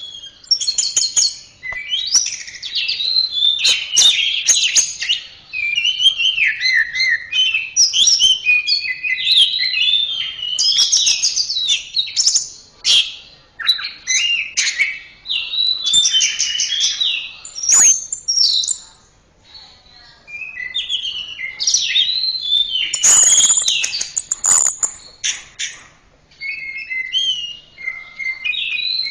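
Orange-headed thrush (anis merah) singing a long, varied song of rapid whistled phrases, slurs and trills, with a short pause about two-thirds of the way through.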